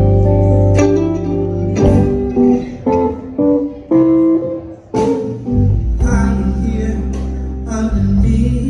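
Live band playing a slow blues number, guitar notes ringing out over bass and drums. The bass drops away briefly around three to five seconds in, then the full band comes back in.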